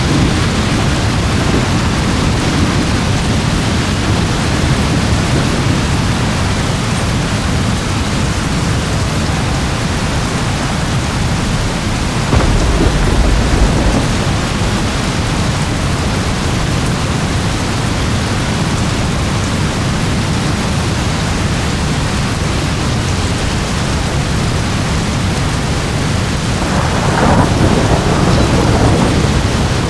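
Steady rain with a continuous low rumble of thunder. A deeper roll of thunder swells about twelve seconds in, and a louder rumble rises near the end.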